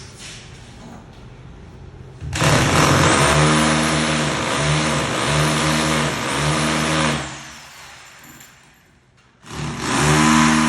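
A motor running hard with a high whine, surging about four times over some five seconds, then stopping and starting again briefly near the end.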